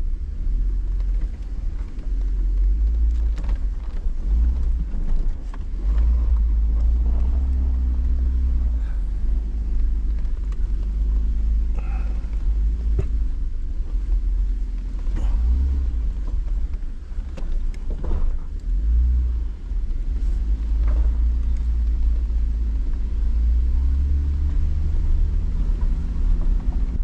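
Jeep engine pulling at low speed over rough washed-out rock, its pitch rising and falling as the throttle is worked, over a steady low rumble. Occasional knocks and clunks from the rocky ground.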